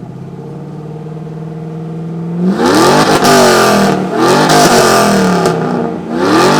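2002 Chevrolet Camaro engine idling with a slowly climbing note, then revved hard three times through its exhaust. The pitch sweeps up and down with each blip, and the revs start about two and a half seconds in.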